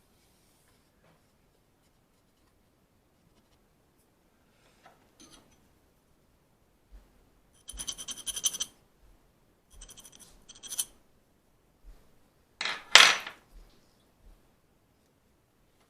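Small metal engine parts being handled on a bench: a few light clicks, then two ringing metallic jingles about halfway through, and a louder metal clatter or scrape near the end.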